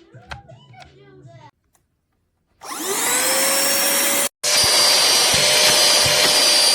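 Cordless handheld vacuum switched on about two and a half seconds in: its motor whine rises as it spins up, then it runs steadily with a loud rushing hiss, with a very short break partway through.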